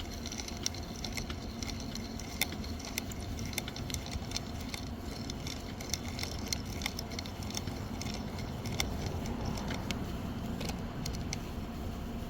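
Manual chainsaw sharpener at work: its sharpening stone rubs against a chain cutter tooth, with irregular small metallic clicks and rattles over a steady low scraping noise.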